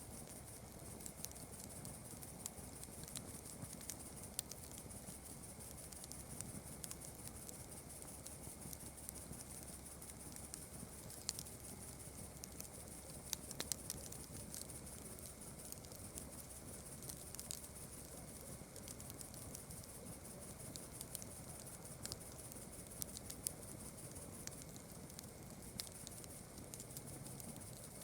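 Campfire crackling, with sharp pops scattered irregularly through it, over a steady high chirring of night insects.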